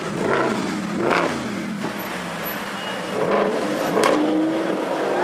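Supercar engine with an Akrapovic exhaust being revved in sharp blips, the pitch climbing and dropping back about four times in two pairs.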